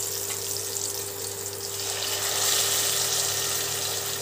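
Banana-stem slices and whole spices sizzling in hot mustard oil in a pan. The sizzle swells about two seconds in as boiled masoor dal is poured into the oil. A steady low hum runs underneath.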